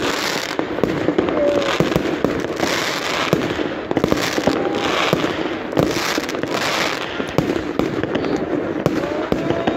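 Fireworks display: aerial shells and crackle stars going off overhead in a dense run of bangs and pops, with surges of crackling every second or so.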